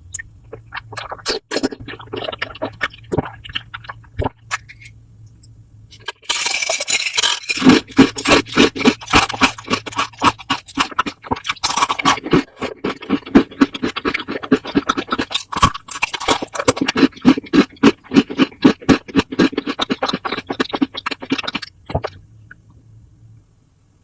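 Close-miked food sounds: dense, quick crackly scraping and crunching strokes that start suddenly a few seconds in and stop shortly before the end, after a few softer scattered clicks.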